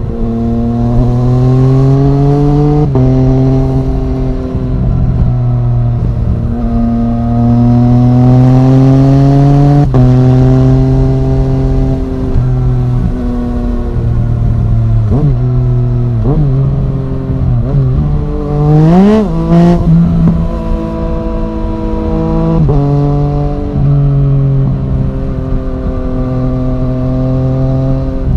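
2015 Yamaha MT-09's 847 cc inline-three engine through an Arrow Thunder full-system exhaust, under way and accelerating. Its note climbs and drops sharply at each upshift, several times, with a run of quick rises and falls in revs about two-thirds of the way through.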